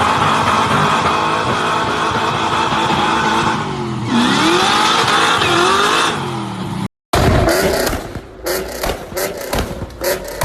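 Loud car engine running at high revs, its pitch dipping and climbing again about four seconds in. After an abrupt cut about seven seconds in, a different car sound follows, broken by a rapid run of sharp cracks and knocks.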